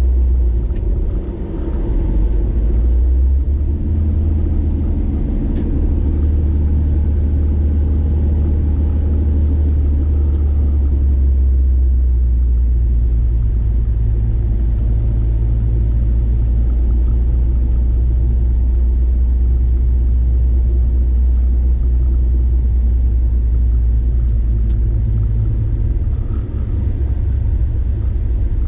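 Car driving at highway speed: a steady low rumble of road and engine noise, heard from inside the cabin.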